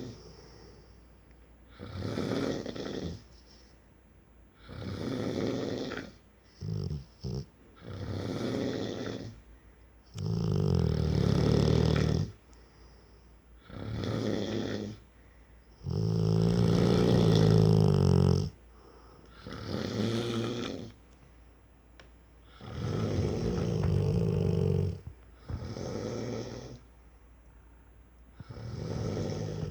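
Rottweiler snoring in its sleep: about ten rough breaths, one every two to three seconds with quiet gaps between. A few are long and deep, and one near the seven-second mark is split into two short snorts.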